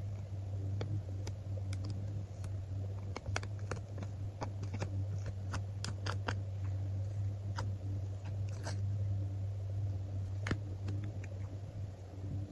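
Small scattered clicks, taps and crinkles of stickers being peeled off their backing and pressed down by hand, thickest in the middle. A steady low hum runs underneath.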